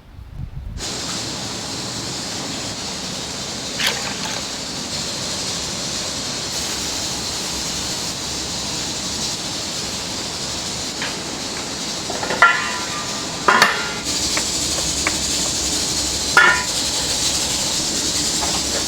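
A steady cooking hiss in a restaurant kitchen, starting about a second in, with a few sharp metallic clinks of utensils near the middle and toward the end.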